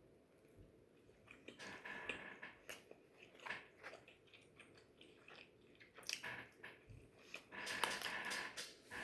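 Close-up eating sounds: a person biting and chewing, with irregular wet mouth smacks and small crunches.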